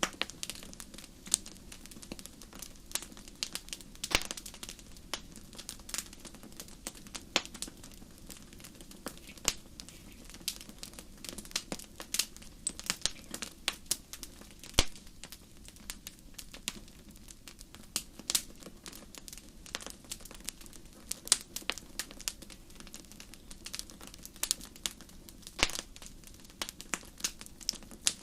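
Wood fire burning and crackling: irregular sharp pops and snaps, several a second, over a low steady rush of the flames.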